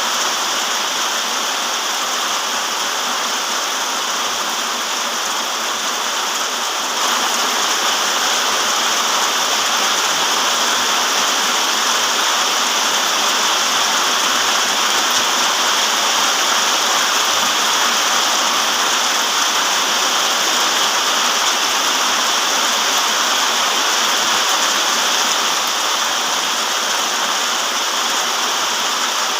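Steady, dense downpour of rain, an even hiss with no separate drops standing out; it gets slightly louder about seven seconds in and eases back a little near the end.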